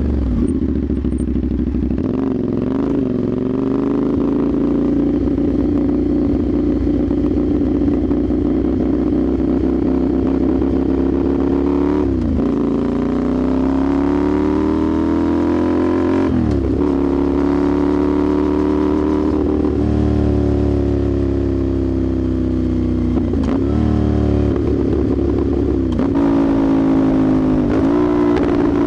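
Motorcycle with a slip-on AR exhaust running under way. The engine note climbs steadily and dips sharply at several gear changes.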